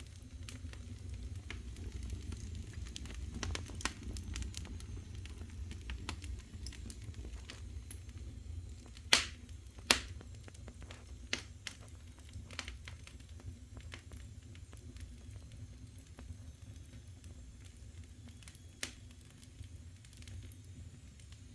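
Firewood burning in the open firebox of a wood-fired boiler: a steady low rumble with scattered crackles and two sharp pops about nine and ten seconds in.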